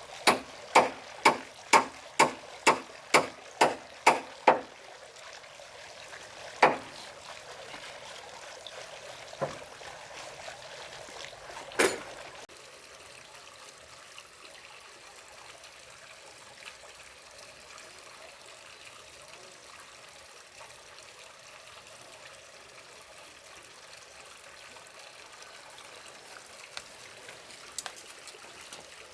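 Blows of a hand tool striking wood in a steady rhythm, about two a second, each with a slight ring, stopping after about four and a half seconds. Three single blows follow a few seconds apart, then a faint, steady trickle of water.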